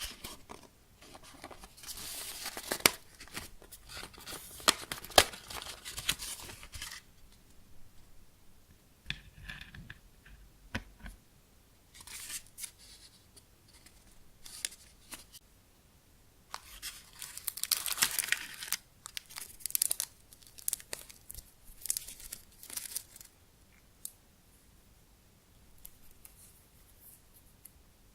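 Plastic packaging crinkled and torn open in several bursts, with quieter rustling handling in between.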